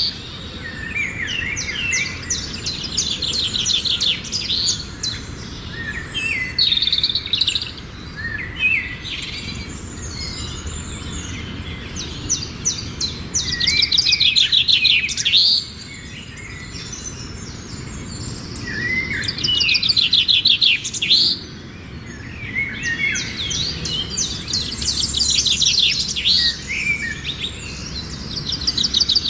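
Songbirds chirping and trilling in rapid bouts of a few seconds each, separated by short pauses.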